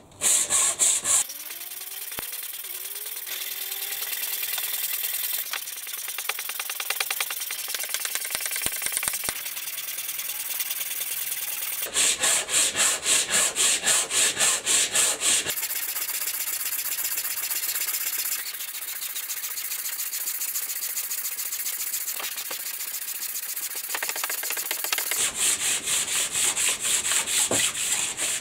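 Hand abrasive work on a freshly cast metal piece: stretches of fast, rhythmic rubbing strokes, with steadier high scraping in between.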